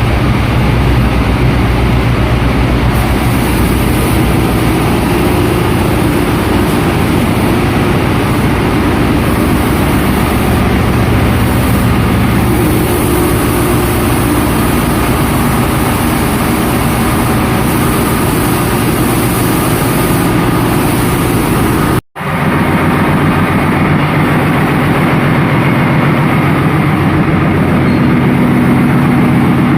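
Ship's engine-room machinery running loudly and steadily: a heavy engine drone over a dense mechanical din. About two-thirds of the way through, the sound cuts out for an instant and comes back as a slightly different, deeper engine drone.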